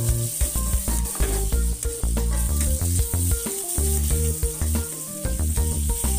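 Background music with a strong bass line over the sizzle of sliced aromatics frying in oil in an aluminium wok. A metal spatula stirs them now and then.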